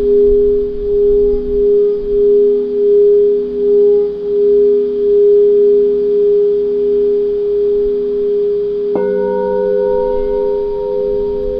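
Singing bowls ringing: a sustained low tone that swells and fades in slow, even pulses. About nine seconds in, another bowl is struck, adding higher ringing tones over the first.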